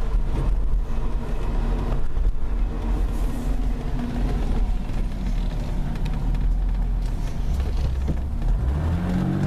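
Mercedes-Benz R107's engine running on petrol while driving, heard from inside the cabin. Near the end the revs climb as the car accelerates.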